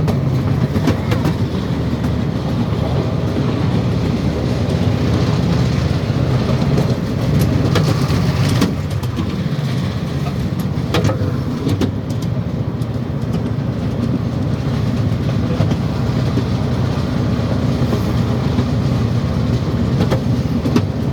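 A train running, heard from aboard: a steady low rumble with scattered sharp clicks from the wheels and cars.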